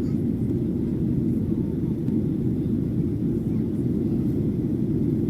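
Steady, loud rumble of a Boeing 737-800 airliner heard inside the cabin: its CFM56-7B jet engines and the airflow over the fuselage, with no change in level or pitch.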